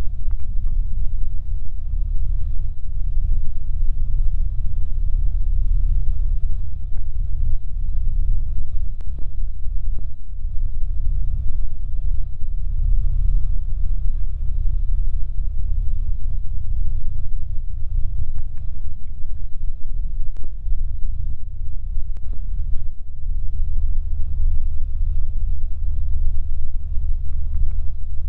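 Cessna 150's four-cylinder Continental engine and propeller droning, heard inside the cockpit as a steady low rumble.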